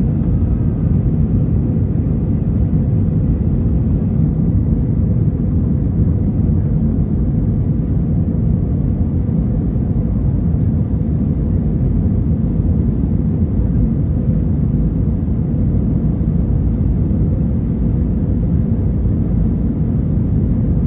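Steady low rumble of an Airbus A321 airliner's cabin, the engines and airflow heard from an economy window seat, holding level without change.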